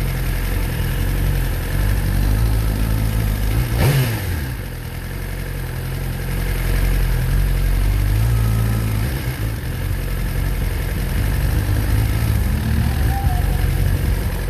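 Motorcycle engine running under way, its pitch shifting with the throttle, over steady wind and road noise. There is a brief swell about four seconds in.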